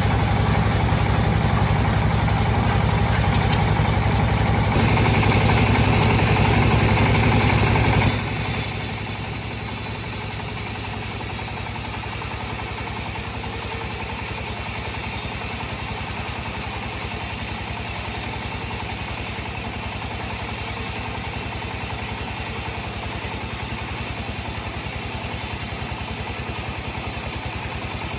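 Sawmill bandsaw machinery running loud and steady. About eight seconds in the sound drops suddenly to a quieter, even running hum with a fine regular pulse, like the blade running free after a cut.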